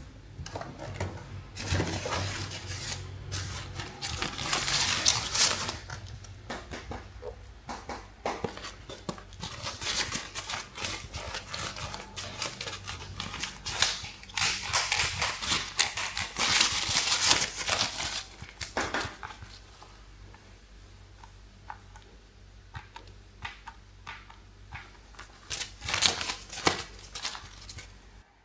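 Plastic toys being handled: irregular clicks, clatter and rustling, in two busy stretches with a quieter spell near the end and one last sharp burst.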